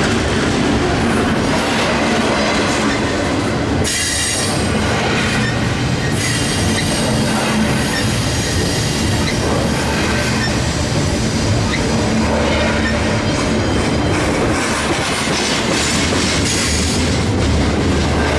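Freight train cars rolling past at close range: a steady rumble of wheels on rail, with faint high-pitched wheel squeal starting about four seconds in.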